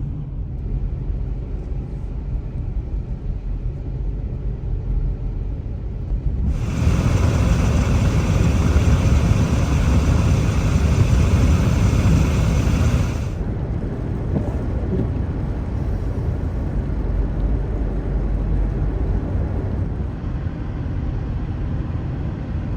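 A vehicle driving, with a steady low rumble of road noise. A louder hiss covering all pitches starts abruptly about a quarter of the way in and cuts off just past the middle.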